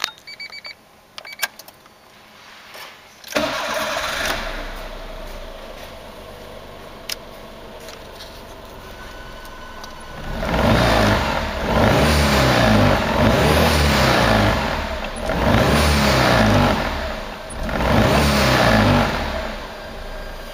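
Honda Life Dunk's E07Z three-cylinder engine being started: a few clicks first, then a short crank before it catches and settles to idle. It is then revved four times, each rev held for a second or two, before it drops back to idle near the end.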